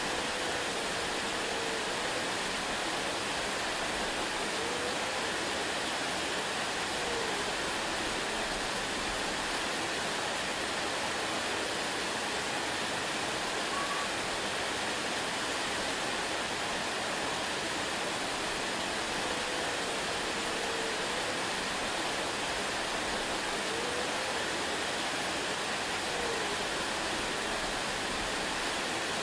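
Waterfall rushing steadily, an even, unbroken wash of falling water. A few faint, short gliding calls sound now and then beneath it.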